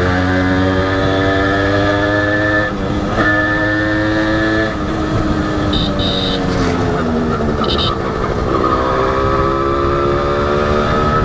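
Honda H100S two-stroke single-cylinder motorcycle engine running under way, its pitch sagging with two brief breaks in the first half, then rising steadily from about eight and a half seconds in as it accelerates. A few short high-pitched beeps sound between about six and eight seconds in.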